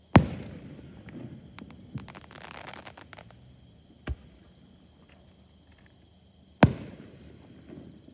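Aerial fireworks shells bursting: a loud bang just after the start, then a spell of crackling, a smaller bang about four seconds in, and another loud bang with a rumbling tail near the end.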